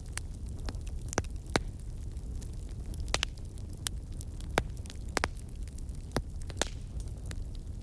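Fireplace fire crackling: sharp, irregular pops and snaps, a few loud ones among many small ones, over a steady low rumble of the flames.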